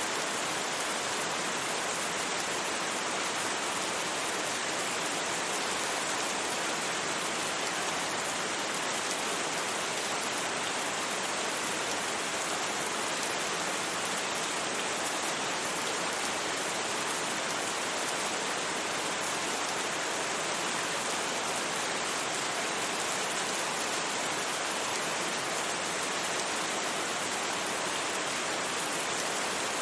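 Steady rain falling, a constant even hiss without thunder or separate drops standing out.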